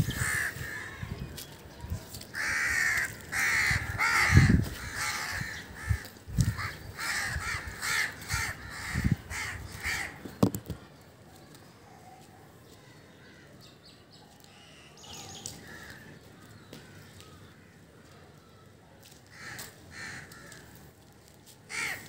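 Harsh bird calls, coming about twice a second for the first ten seconds, mixed with soft thumps from hands handling close to the microphone; after that only a few faint calls now and then.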